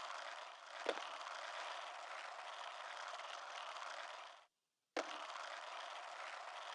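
Faint steady hiss, with a single click about a second in and a cut to dead silence for about half a second near the middle.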